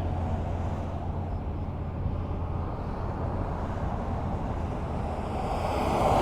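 Highway traffic: a steady low rumble of road noise between passing vehicles, with the next vehicle approaching and getting louder near the end.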